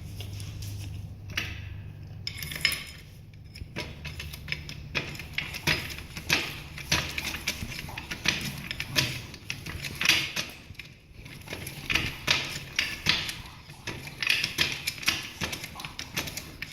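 Irregular metal clicks and clanks from a car jack and steel jack stand being worked by hand while a motorcycle is jacked and let down.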